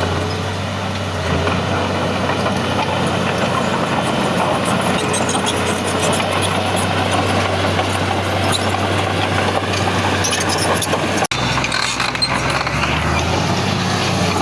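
Heavy diesel engine of earthmoving machinery running steadily under work, with a momentary cut-out about eleven seconds in.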